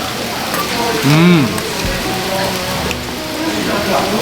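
Duck meat sizzling in a hot pan, a steady crackling hiss. About a second in, a short rising-then-falling voice cuts in over it.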